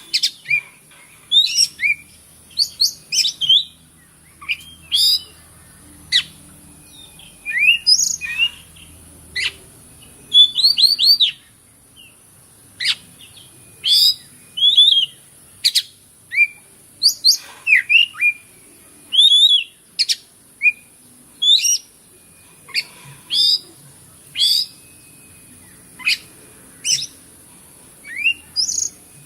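Oriental magpie-robin singing a fast, varied song of short whistled notes and chirps, many sliding up or down, in quick bursts with brief pauses between them.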